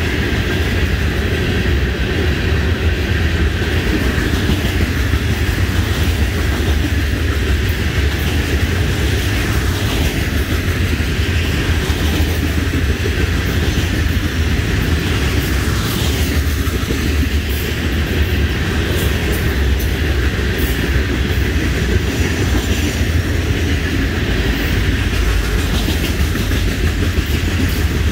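Florida East Coast Railway freight train's open hopper cars rolling past, a steady low rumble of steel wheels on the rails.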